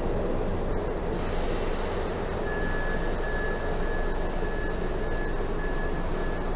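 Freight train rolling past with a steady rumble of wheels on rail. From about two and a half seconds in, a high steady squeal sounds in several short runs with brief breaks.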